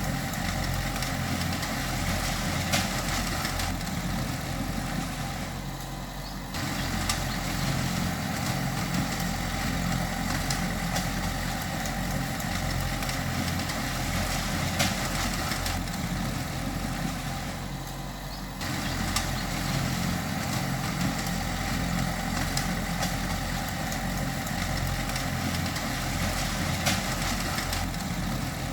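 Diesel engine of heavy earthmoving machinery running steadily, with a few sharp knocks. Twice it eases off slightly, then comes back up abruptly.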